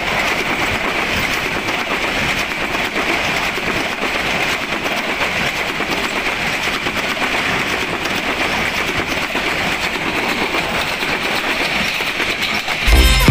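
A train running on the track: a steady rushing noise of wheels on rails, dense with fast clicking. Background music cuts in loudly at the very end.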